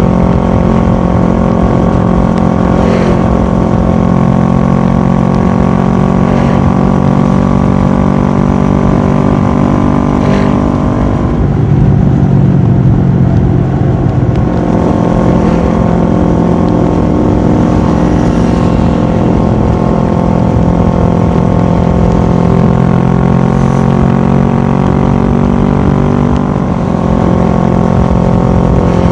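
Kawasaki ER-6f's parallel-twin engine running through a full Akrapovic exhaust while the bike is ridden, a steady even note. About twelve seconds in, the note breaks up and gets a little louder for around three seconds before settling back to steady.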